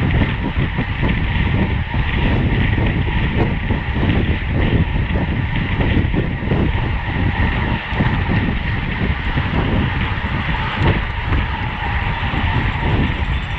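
Steady rush of wind and road noise on a racing cyclist's camera microphone while riding at speed in the bunch.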